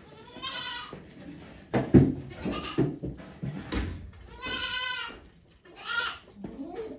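Goat bleating several times in short calls, the longest about halfway through, with a low thump about two seconds in.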